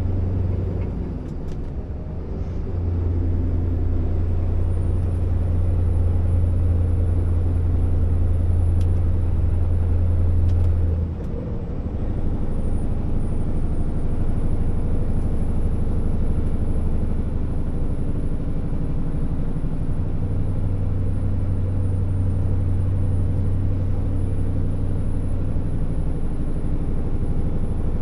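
Scania R650's V8 diesel engine pulling a loaded 60-tonne timber truck: a steady low drone that dips briefly about eleven seconds in, then pulls on. A faint thin high whistle rises in twice above it.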